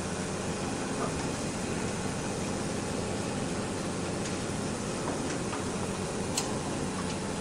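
Wood lathe running with a steady motor hum and a few faint ticks.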